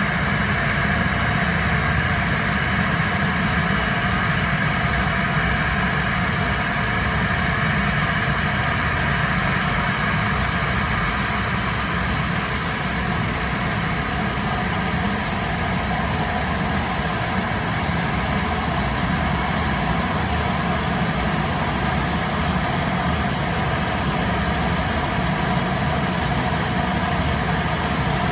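An engine running steadily: a constant low rumble with a steady whine above it, neither rising nor falling.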